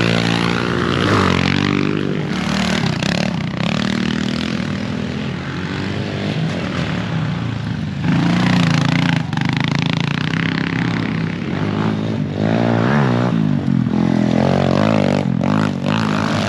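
Several racing pit bikes' engines revving up and down as they are ridden hard, their pitches overlapping, with sharp rises in revs near the end.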